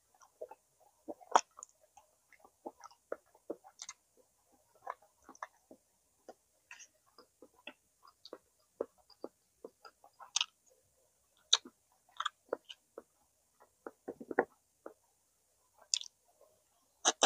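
Close-miked mouth sounds of someone eating smoked chicken: chewing and lip smacking, an irregular string of short smacks and clicks, a few of them much louder.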